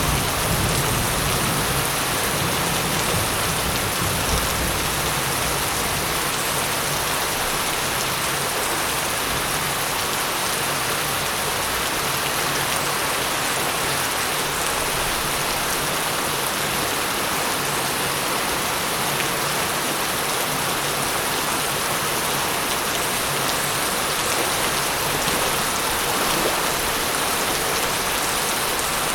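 Steady rain falling, a dense even hiss of drops on surfaces. A low thunder rumble dies away over the first few seconds.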